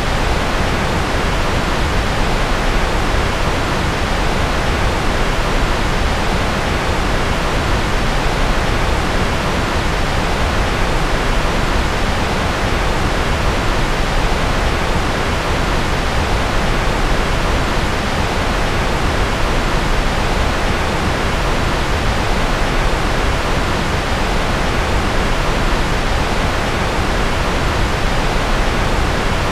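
Steady generated white noise: an even, unbroken hiss that does not change, fuller in the low and middle range and thinning toward the top.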